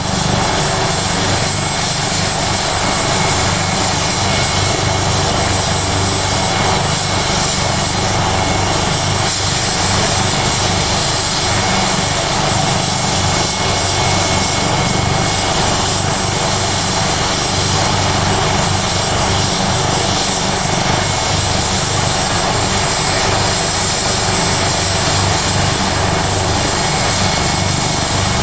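Leonardo AW139 helicopter's twin turboshaft engines and rotor running steadily during startup on the ground, with a constant high-pitched turbine whine over the rotor noise.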